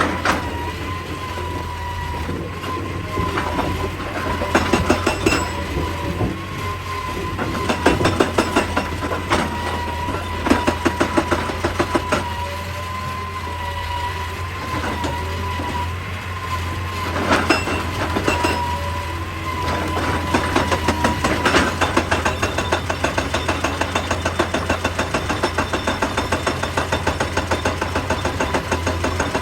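Excavator-mounted hydraulic rock breaker hammering rock in rapid, evenly spaced blows over the steady running of the machine's engine. It goes in several bursts, and the longest run comes in the last third.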